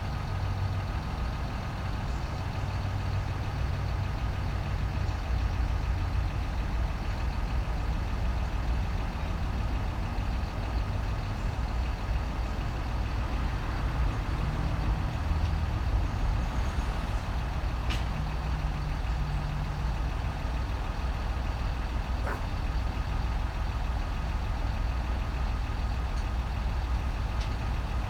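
Diesel truck engine running steadily at idle, a low, even hum, with a couple of faint ticks in the second half.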